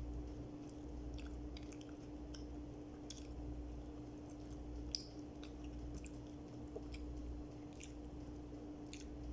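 A person chewing food close to the microphone, mouth sounds with scattered small wet clicks and crunches, over a steady low hum.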